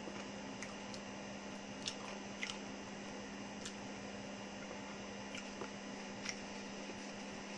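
Faint steady electrical hum in a small room, with a few scattered faint small clicks.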